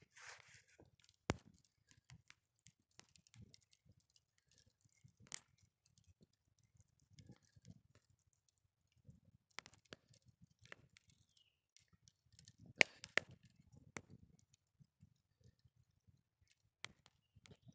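Wood campfire burning with faint irregular crackling and a few sharper pops, the loudest pair a little after the middle.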